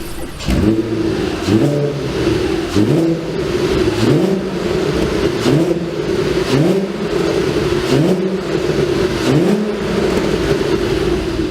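VW Golf IV R32's 3.2-litre VR6 engine revved in repeated short throttle blips, about eight in all, roughly one every second and a bit, each rising in pitch and falling back to idle, heard through a custom variable-valve exhaust.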